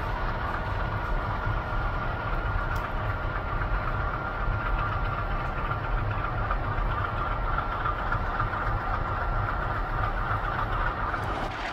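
Pair of MLW diesel locomotive engines running as the locomotives depart: a steady deep rumble with a thin, steady high whine above it.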